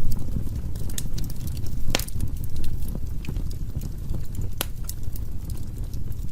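Wood fire burning in a fireplace: a steady low rumble of flames with scattered sharp crackles and pops, the loudest about two seconds in.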